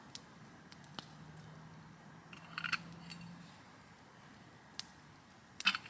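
Light metal clinks and clicks as small camp-stove parts are handled, in two short clusters about a third of the way in and near the end, with a few single ticks between.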